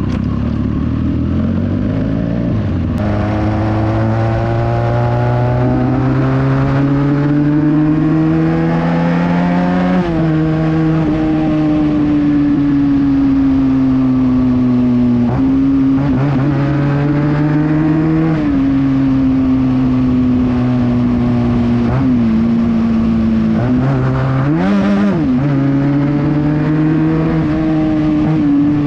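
Benelli 300 motorcycle with a loud exhaust under way, the engine note climbing steadily and dropping back at gear changes. It drops sharply and swings back up quickly about three-quarters of the way through.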